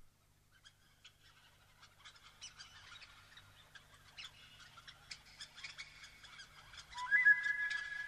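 Faint bird chirps and twittering that grow busier. About seven seconds in, a louder whistled note starts and holds steady in pitch.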